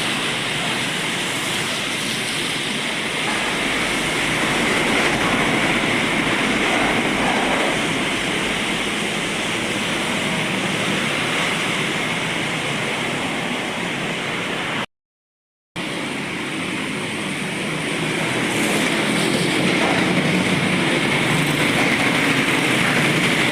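Steady traffic noise on a wet road: tyres hissing through water and truck engines running past in drizzle. A brief cut to silence comes about two-thirds of the way through.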